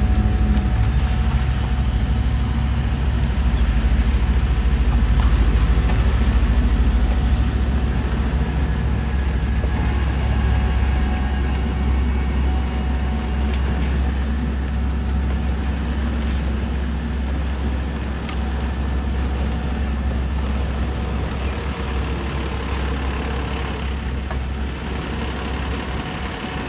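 Heavy diesel engine of road-paving equipment or a truck running steadily, gradually getting quieter.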